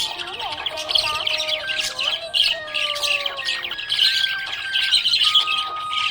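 Budgerigars chirping and warbling in a steady, busy chatter, the sound of contented budgies.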